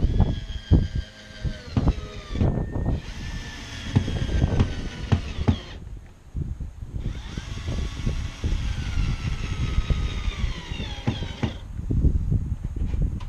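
Power drill running in three long stretches with short breaks, its whine sliding down in pitch as it slows, amid frequent knocks and clatter of parts being handled.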